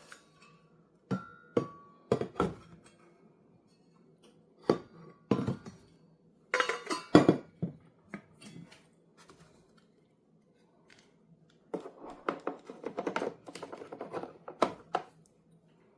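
Hands handling the coffee maker and a cup: scattered hard knocks and clinks, then a busier stretch of clattering about twelve seconds in.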